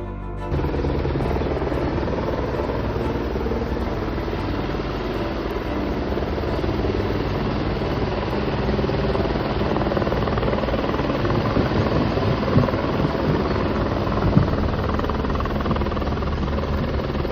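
Rescue helicopter's rotor and engine running steadily, with a continuous rapid rotor chop that starts abruptly about half a second in.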